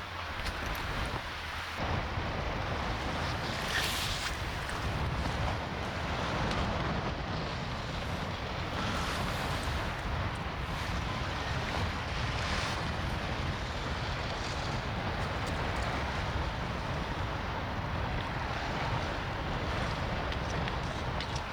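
Strong wind buffeting the microphone: a steady rushing noise with a heavy low rumble that thickens about two seconds in.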